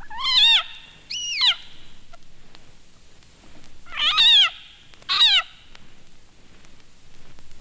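Leopard frog screaming in fright, the distress call a frog gives with its mouth open when seized. There are four short, wavering cries in two pairs, each rising and then falling in pitch.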